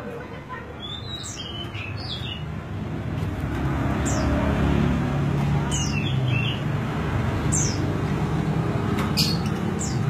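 Large niltava calling: short, high, downward-sliding notes repeated about seven times, with a few lower chirps among them. Underneath is a steady murmur and low rumble that grows louder after about three seconds.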